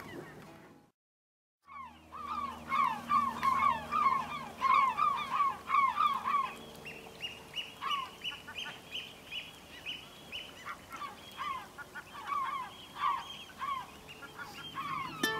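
Birds calling: a run of short calls that fall in pitch, about three a second, then sparser calls, after about a second of silence. Plucked-string music starts right at the end.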